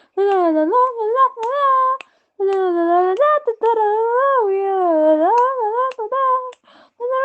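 A person humming or singing wordless melody phrases in a small room, the pitch sliding up and down, with two short pauses and a few clicks between notes.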